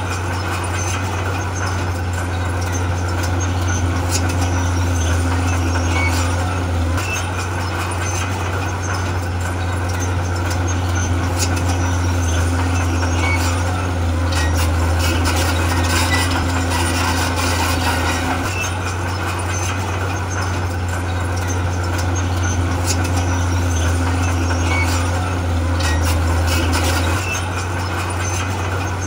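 Heavy diesel earthmoving machinery running steadily under load, its low engine note swelling and easing every few seconds, with scattered light clicks and clanks over it.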